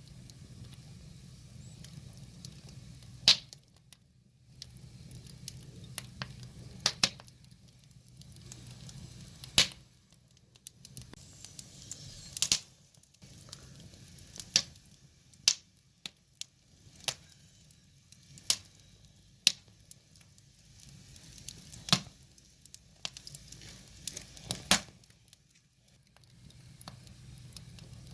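Wood fire crackling: sharp, irregular pops and snaps of burning firewood, roughly one every second or two, over a soft low rumble.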